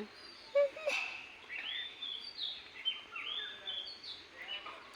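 Birds chirping: a run of short calls that rise and fall in pitch, faint.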